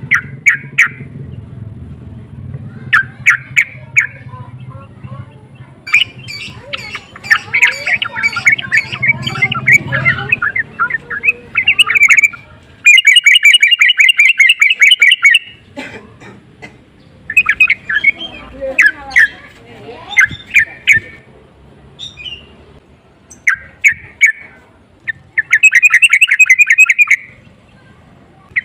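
Yellow-vented bulbul (trucukan) singing loud, bubbly repeated phrases, with two longer rapid runs about halfway through and near the end. A low background rumble runs under the song for the first third.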